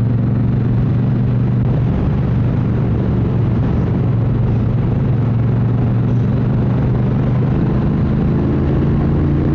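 Triumph Bonneville Bobber's parallel-twin engine running steadily while riding, under steady wind and road noise; the engine pitch rises a little near the end.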